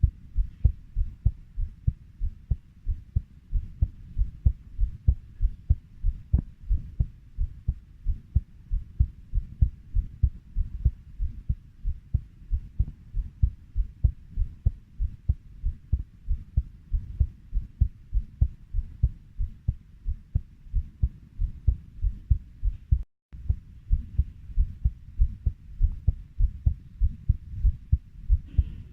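Human heartbeat at a steady 90 beats per minute: even, low lub-dub thumps in pairs, about one and a half beats a second. The sound drops out for a split second once, about two-thirds of the way through.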